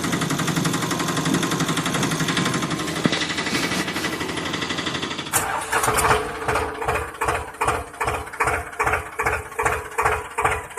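An engine-like mechanical sound: a steady fast buzz, then about five seconds in it changes to a pulsing beat about twice a second.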